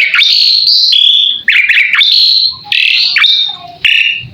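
Asian pied starling (jalak suren) singing: a rapid, unbroken run of varied whistles, chirps and short rattling notes, some sliding up and others falling.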